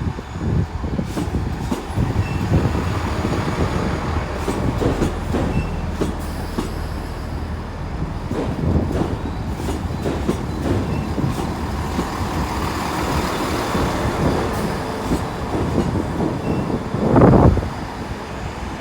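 A GWR Class 166 'Turbo' diesel multiple unit pulls out of the station, its diesel engine running with a steady rumble as the wheels click over the rail joints. A single brief loud thump comes near the end.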